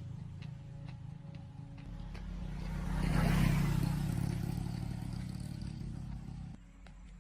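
A motor vehicle's engine and tyres passing by: a low rumble that swells to its loudest about three seconds in, then fades. The sound starts and stops abruptly.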